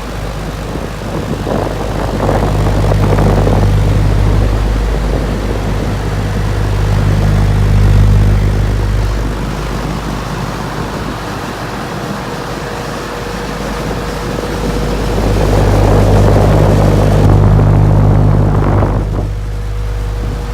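Vintage electric fan running: a steady low motor hum with a faint higher tone, under the rush of air from the blades, which swells and fades several times.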